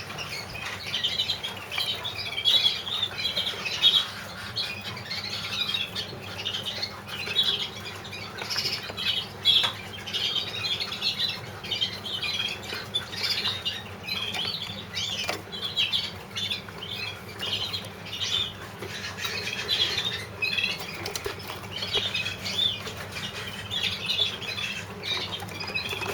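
Several young canaries in show cages giving short repeated calls throughout, with scattered light clicks and wing flutters as they hop and move in the cages.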